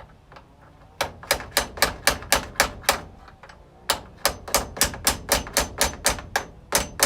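Hammer tapping on a door hinge: two runs of quick, sharp taps about four a second, the first about a second in, then a short pause and a longer run.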